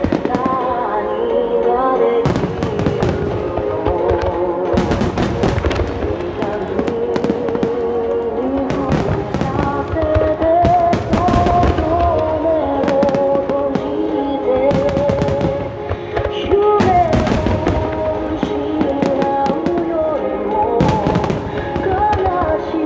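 Large aerial firework shells bursting again and again, sharp bangs and crackle, over a song with a sung melody played through loudspeakers.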